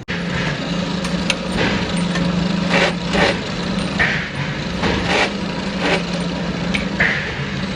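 Metalworking machinery running with a steady hum, with short hissing or scraping strokes repeating about once a second.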